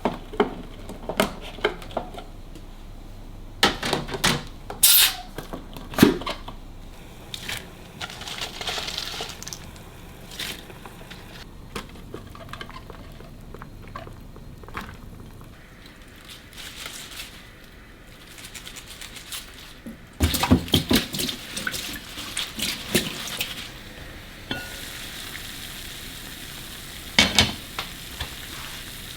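Kitchen clatter: dishes, pots and utensils knocking and clinking as they are handled, with a cluster of quick knocks about 20 to 23 seconds in. Near the end a steady hiss sets in.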